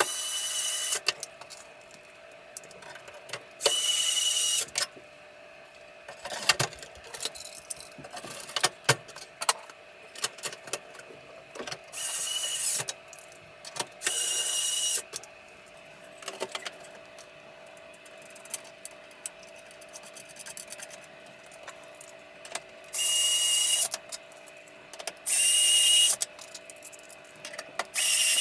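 A small electric motor whirring in short bursts of about a second, about eight times, with a high whine, amid clicks and knocks, over a steady low hum.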